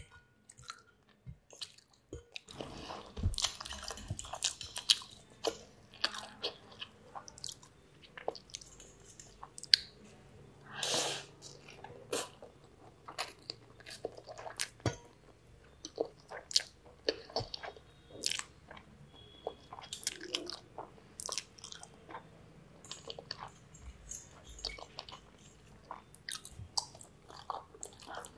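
Close-miked chewing of spaghetti in a minced-beef sauce: many short, irregular mouth sounds, with one longer, louder sound about eleven seconds in.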